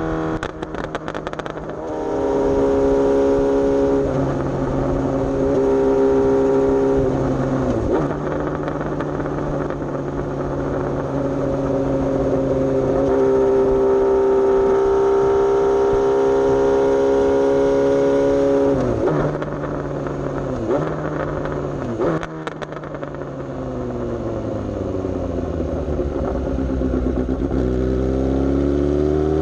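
Suzuki GSX-S750's inline-four engine through an aftermarket Coffman's exhaust, ridden on the road: held at fairly steady revs with several brief breaks for gear changes, revs falling about three-quarters of the way in, then climbing again near the end.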